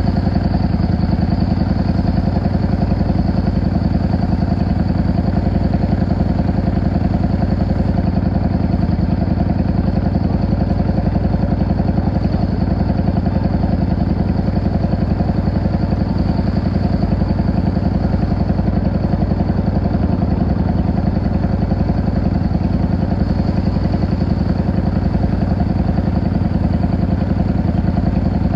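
Yamaha XVS 650 V-Star's air-cooled V-twin engine running at a steady, even speed, with no revving up or down.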